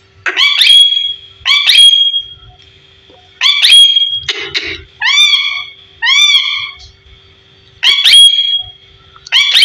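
A parrot giving a series of loud, rising calls, about seven in all, each under a second long with short pauses between them.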